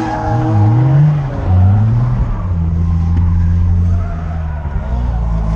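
Drift car's engine revving up and down, then held at steady high revs, with tyres skidding across the track.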